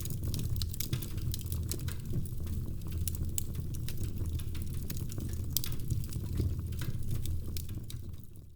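Wood fire crackling in a fireplace: a steady stream of small pops and snaps over a low rumble of the flames, dropping away abruptly at the very end.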